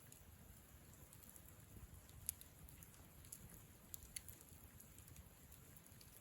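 Wood campfire crackling softly, with scattered sharp pops and ticks, the loudest about two seconds in, over a low rumble.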